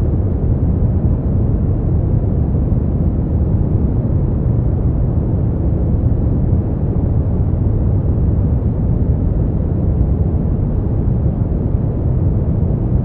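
Steady sleep-aid noise, deep and even, weighted toward the low end with little high hiss, unchanging throughout.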